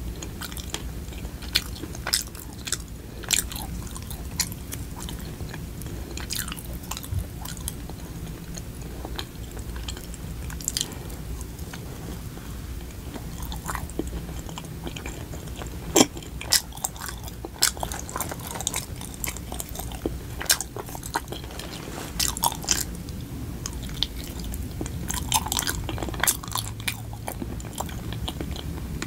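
Close-up chewing of a soft, sticky mugwort rice cake, with many irregular wet mouth clicks over a low steady hum.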